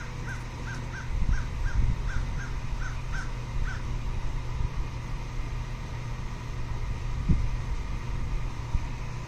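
A bird calling in a quick series of about ten short, slightly falling notes, about three a second, that stops about four seconds in. Under it runs a low rumble with a few thumps, the loudest about seven seconds in.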